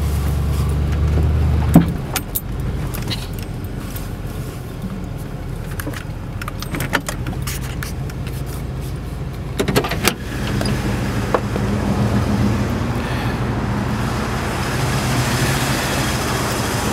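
1979 Pontiac Trans Am's 403 cubic-inch (6.6 L) V8 running quietly, first as the car rolls slowly, then at idle. A sharp knock comes about two seconds in, and clicks cluster near ten seconds, after which the idling engine is heard from outside the car.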